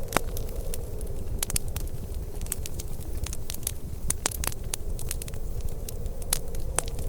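Wood fire in a fireplace crackling, with sharp irregular pops several times a second over a steady low rumble.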